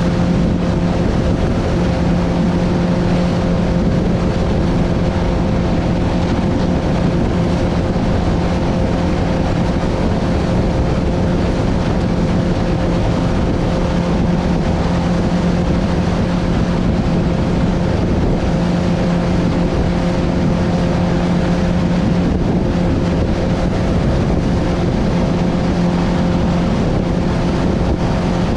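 Boat motor running at a steady pitch under a constant rush of wind and water noise.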